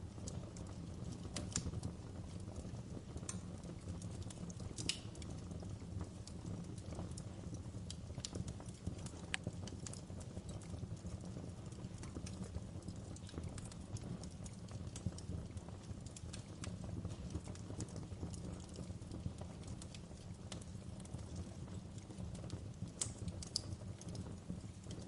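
Wood fire burning in a fireplace: a steady low sound of the flames with sharp pops and crackles at irregular intervals.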